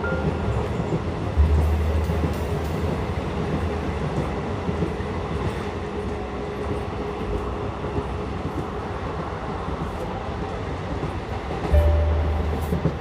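Moving passenger train running along the track: a steady rail noise, with a deep rumble that swells about a second and a half in and again near the end.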